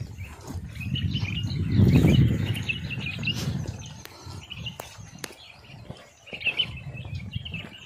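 Small birds chirping repeatedly, with a low rumble underneath that swells loudest about two seconds in.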